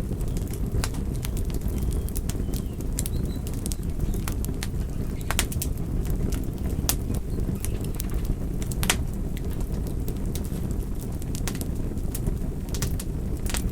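Campfire burning: a steady low rush of the flames with frequent sharp crackles and pops at irregular moments.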